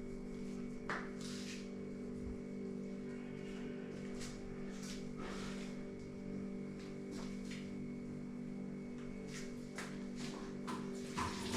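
Knife strokes cutting food, about a dozen short, scattered cuts and scrapes, over a steady low hum of held tones.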